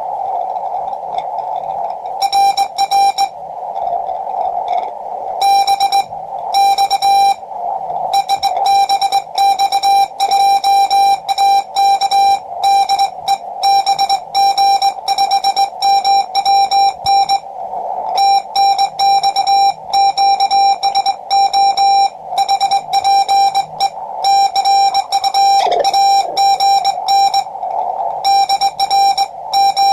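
Morse code from a QRP Labs QCX-20 transceiver on the 20 m band: a single steady tone near 750 Hz keyed in fast dits and dahs with a Vibroplex Lightning Bug semi-automatic key, each element starting and stopping with a crisp click. A faint hiss of band noise lies under the tone, and a few stretches sound hazier and rougher.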